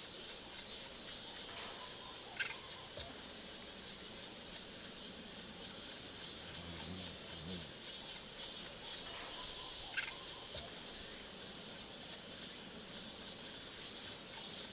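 Insects chirping steadily in a fast pulsing rhythm, with two sharp clicks about seven seconds apart.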